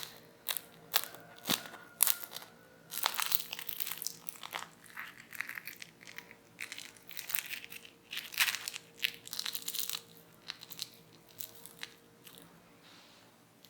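Crunching of crispy fried potato snacks being bitten and chewed, in an irregular run of crisp crunches that dies away near the end.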